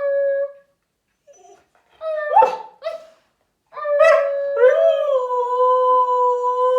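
Siberian husky howling: a short call, then two quick yelping calls, then about four seconds in a long, steady howl that holds its pitch.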